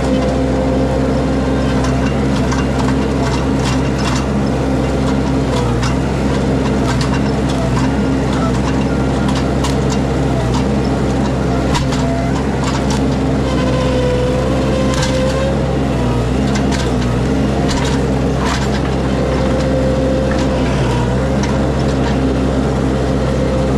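Mini skid steer engine running steadily under load, its pitch sagging briefly now and then as the machine works. Scattered snaps and cracks of shrub branches and roots being torn out.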